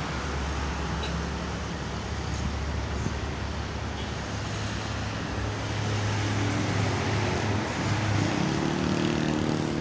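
Road traffic on a toll road: a steady rush of passing vehicles, with a heavy engine's drone rising in pitch through the second half.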